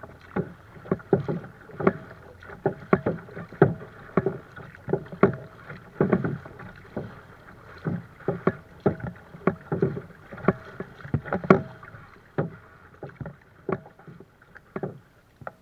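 Water splashing and slapping against a kayak in many quick, irregular strikes that thin out near the end.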